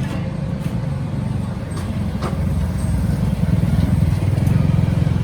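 John Deere 5039D tractor's diesel engine running steadily, getting a little louder about three and a half seconds in.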